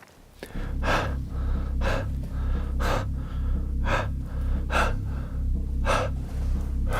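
Loud, gasping breaths about once a second over a steady low drone, both starting suddenly half a second in.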